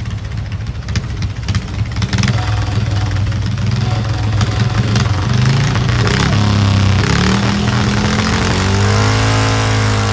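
Tractor engine running and revving, getting louder partway through, with its pitch rising and falling near the end.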